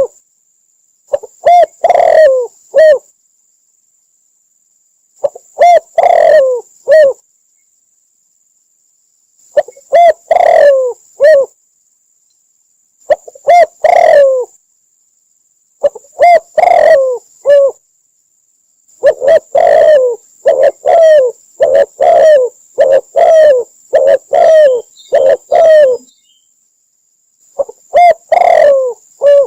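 Spotted dove cooing: repeated short phrases of three or four coos, a few seconds apart, coming in quicker succession about two-thirds of the way through.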